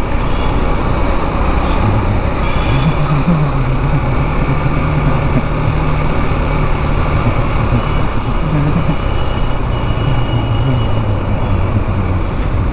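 Riding on a 2017 KTM Duke 390: the single-cylinder engine running under way, its pitch shifting a little up and down, mixed with steady wind rush and road noise on the rider's microphone.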